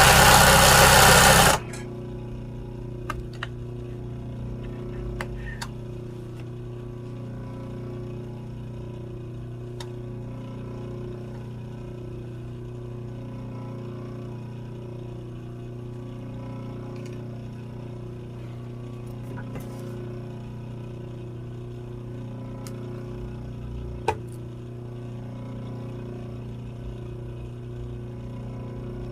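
Sewing machine stitching in a loud, quick run that stops about a second and a half in. A steady low hum follows, with a few light clicks and one sharper click near the end.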